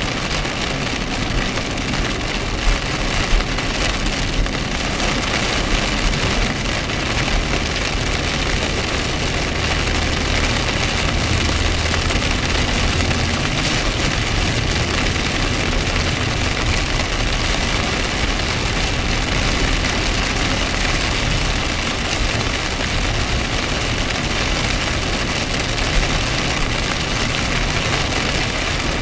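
Heavy rain pelting a car's windshield and body, heard from inside the cabin as a steady rush, with the car's engine running underneath.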